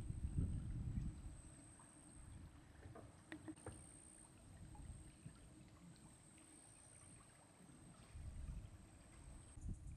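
A faint, steady, high-pitched insect trill, crickets, with low rumbling surges in the first second and again near the end, and a few soft clicks around three seconds in.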